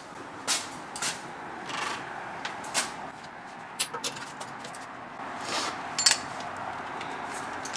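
Scattered, irregular metallic clicks and clinks of hand tools being handled while working on a car, over a steady background hiss.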